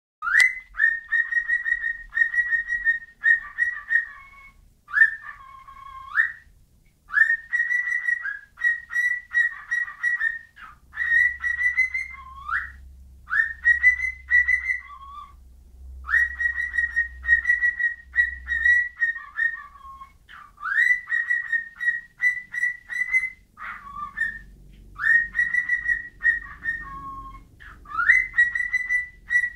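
Pet bird whistling the same short tune over and over: a quick rising note, a run of short chirped notes, then a drop to a lower note, repeated every two to three seconds.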